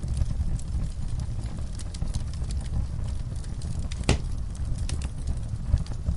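Wood fire burning in a fireplace: a steady low rumble of flames with scattered small crackles and one louder pop about four seconds in.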